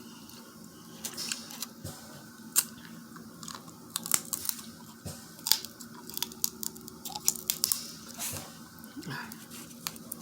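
Close-up eating sounds from a seafood boil: irregular sharp clicks and crunches as food is torn apart and chewed.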